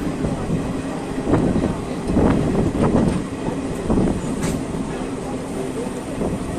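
Passenger train coach running, heard from its open doorway: a steady rumble with a few sharp clanks from the wheels over the track.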